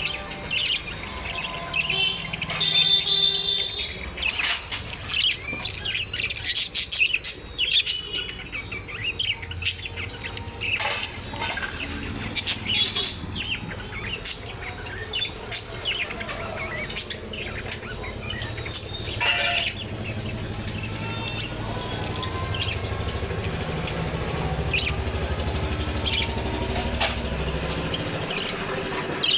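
Many small caged birds chirping and twittering in quick, overlapping calls. A low rumble of traffic runs underneath, growing louder in the second half.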